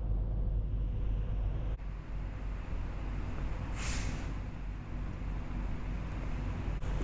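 A vehicle driving on a highway: a steady low road and engine rumble, with a short hiss about four seconds in.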